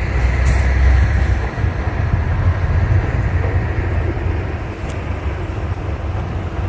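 A train running past close by: a loud, steady, low rumble.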